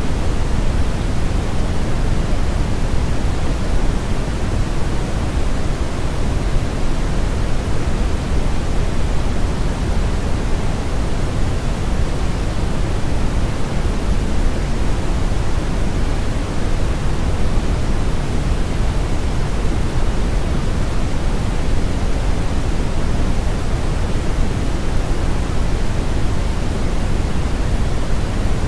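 Steady brown noise: a smooth, unchanging hiss weighted heavily toward the bass, with the highs rolled off.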